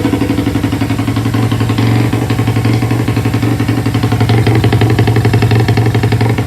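Honda Little Cub's single-cylinder four-stroke engine idling through an aftermarket Tanaka Shokai stainless upswept muffler, a steady fast run of exhaust pulses that gets a little louder about four seconds in.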